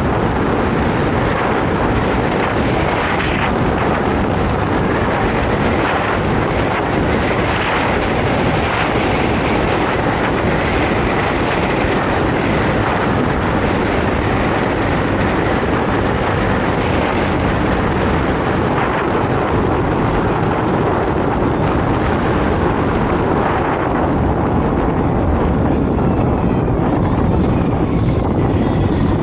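Wind rushing over the microphone of a moving motorcycle, with the motorcycle's engine running underneath. The high hiss thins out in the last few seconds.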